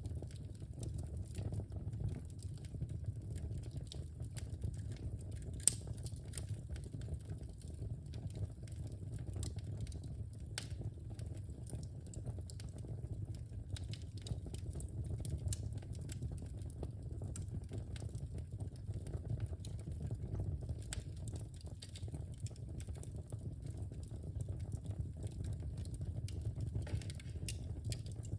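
Wood fire burning in a fireplace: a steady low rumble of flames with frequent small crackles and one sharper pop about six seconds in.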